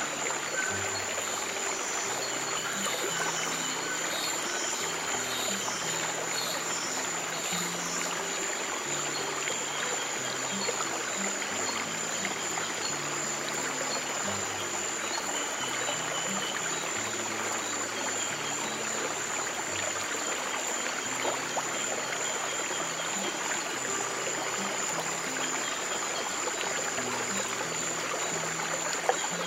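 Stream water running steadily, with slow, soft low piano notes underneath that change every second or two.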